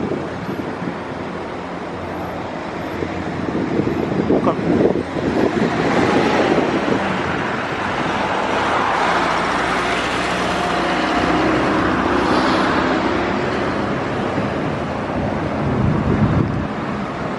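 Aircraft passing by, its engine noise building to a peak midway and then fading away.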